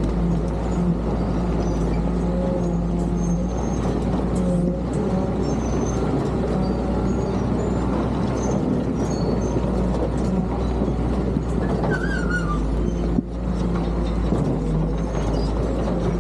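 Caterpillar D7 bulldozer's diesel engine running steadily, with a brief dip in the sound late on.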